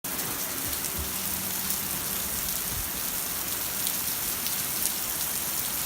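Heavy rain falling steadily: an even hiss with scattered sharper drop hits.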